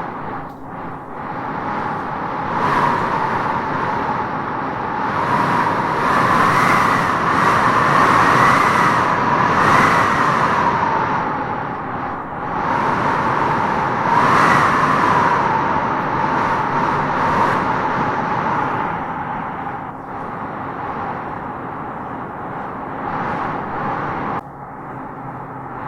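Howling wind gusting through trees: a steady rushing roar with a whistling howl on top that swells with the gusts, strongest about six to ten seconds in and again around fourteen seconds, easing off near the end.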